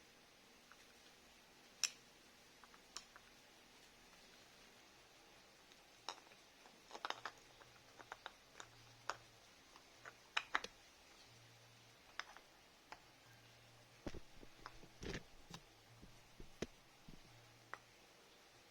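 Scattered light clicks and taps of small parts and hand tools being handled, irregular and sparse, with a busier run of taps and knocks in the last few seconds.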